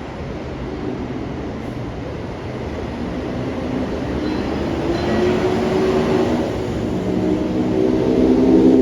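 São Paulo Metro Line 15 monorail train (Bombardier Innovia Monorail 300, rubber tyres on a concrete guideway) running past, its noise growing steadily louder. Several steady humming tones join about halfway through and strengthen near the end.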